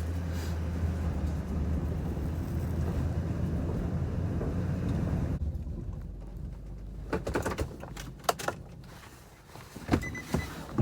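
Small truck's engine idling steadily, then switched off about five seconds in. A few clicks and knocks follow, and a faint beeping chime starts near the end.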